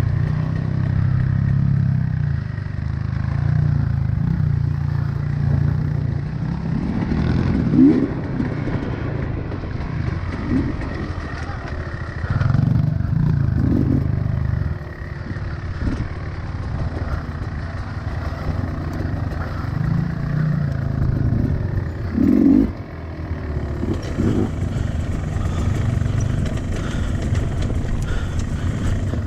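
Small single-cylinder four-stroke engine of a 2025 Honda CRF110F pit bike running under load off-road. Its revs rise and fall, with several short throttle blips.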